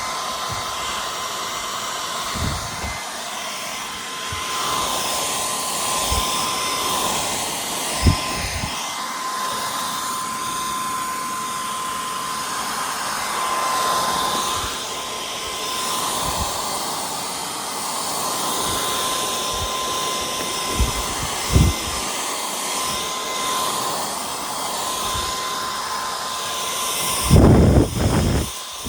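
Cordless stick vacuum running steadily, a rushing noise with a high whine over it, with occasional short thumps and a louder burst of noise near the end.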